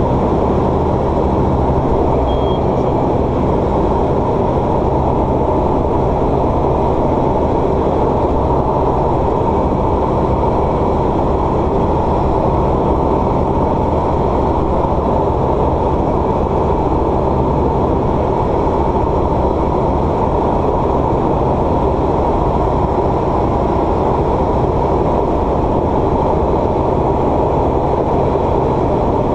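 Light aircraft's piston engine and propeller droning steadily, with several low engine tones held level throughout.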